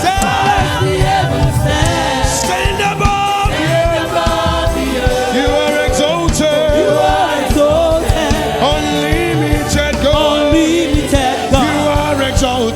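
Church choir singing a gospel praise song with instrumental accompaniment and regular percussive hits.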